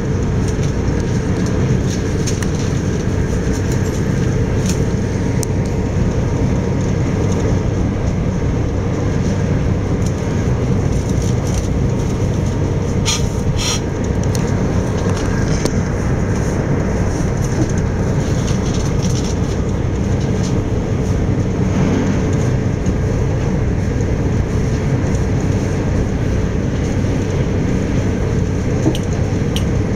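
Bombardier Electrostar electric multiple unit running at speed, heard from inside the carriage: a steady, loud rumble of wheels on rail with a faint hum, and a short run of sharp clicks about halfway through.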